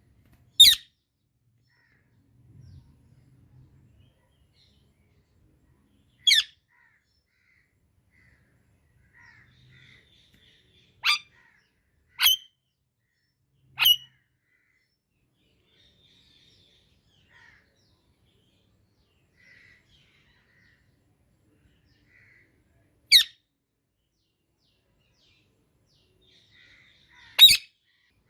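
Indian ringneck parakeet giving short, sharp, high calls, seven of them spread out several seconds apart, with faint soft chirps in between.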